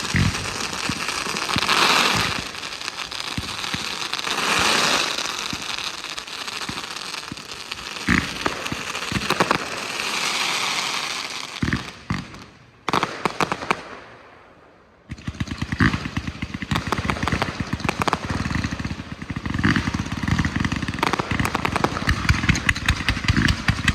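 Low-noise fireworks crackling and fizzing densely, with swells of hiss. The display dies down for a few seconds past halfway, then thick crackling comes back suddenly about fifteen seconds in.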